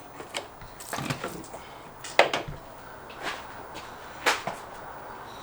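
Scattered clicks and knocks of hand work on parts under a car's hood, about six in all, the sharpest about two seconds in.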